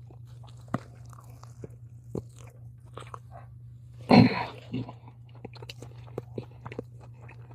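A person chewing and crunching kettle-cooked potato chips close to the microphone: a run of small crisp crunches, with one louder crunch about four seconds in. A steady low hum sits underneath.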